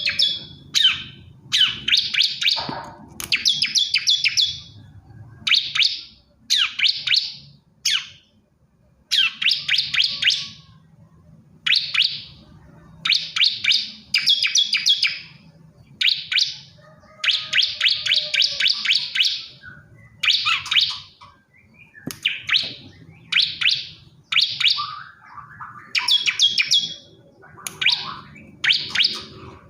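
Male bar-winged prinia (ciblek kristal) singing: short bursts of rapid, high, buzzy chirps, each lasting under a second to about two seconds, repeated with brief pauses between them.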